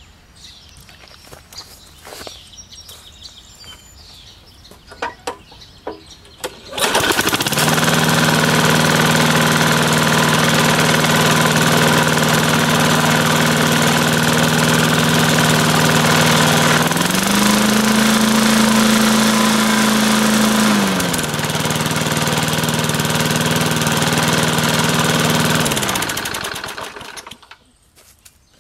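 A 1984 Sears Craftsman 20-inch push mower's small engine starts about a quarter of the way in and runs steadily. Its speed rises for a few seconds in the middle, then it winds down and stops near the end. It runs well on nothing more than fresh oil and gas.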